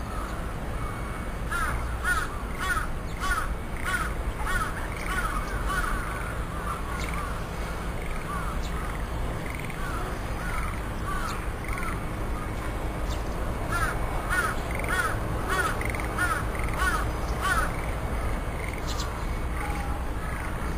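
A bird calling over and over in runs of short, arching, harsh notes, about two a second, with a pause of several seconds between the two main runs.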